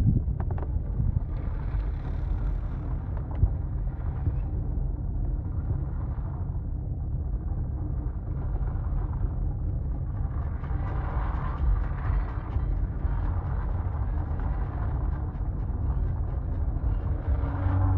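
Ford Mustang engine running at low speed, heard from inside the cabin: a steady low rumble with no sharp events.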